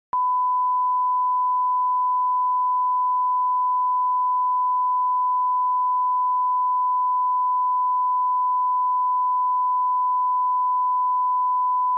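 Steady 1 kHz sine-wave line-up tone at −18 dBFS, a single unwavering pitch that cuts in sharply just after the start and holds at a constant level.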